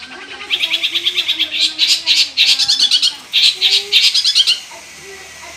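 Long-tailed shrike (cendet) singing in fast, high-pitched runs of rapidly repeated notes, in three bursts that stop about a second before the end. This is the shrike's busy song, full of mimicked phrases.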